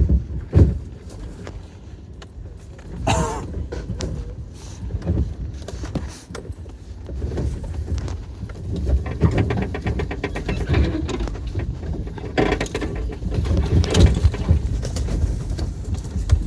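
Toyota Tacoma driving off-road: a steady low rumble of engine and tyres, with several knocks and jolts and a stretch of fast rattling partway through as it goes over rough ground.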